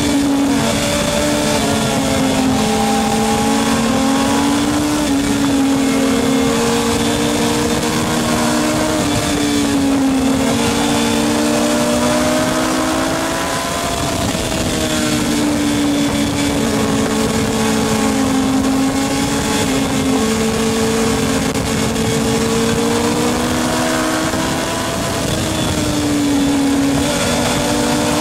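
Racing motorcycle engines running hard at high revs. Their pitch rises and falls continuously with throttle and gear changes, without a break.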